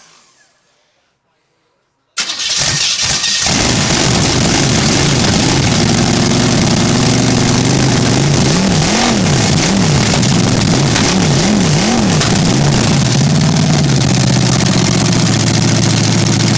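Newly installed Chevrolet 350 small-block V8 cranks and fires about two seconds in, catching quickly. It is then revved up and down several times midway, and settles to a steady idle near the end.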